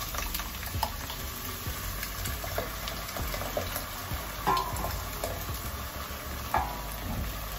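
Hot palm oil and onions sizzling in a pot as blended tomatoes are poured in from a plastic jug, with scattered clicks and two louder knocks about halfway and near the end.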